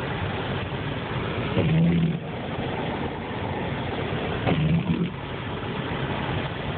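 Steady road and engine noise inside a moving car, with a short louder low sound about every three seconds.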